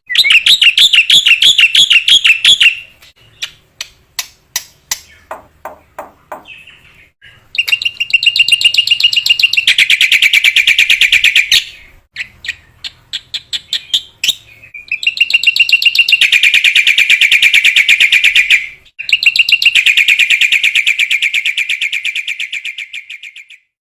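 Black-winged myna (jalak putih) singing: loud runs of very rapid repeated notes, each run lasting a few seconds, with a stretch of separate sharp chips between them.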